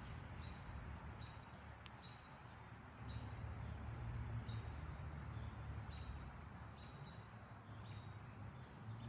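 Quiet background ambience: a low rumble that swells and fades over a faint hiss, with faint short high chirps repeating roughly once a second.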